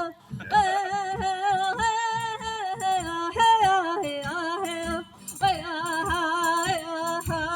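A woman singing a melody with a wavering, vibrato-like pitch over music with a steady low beat, the voice pausing briefly about five seconds in.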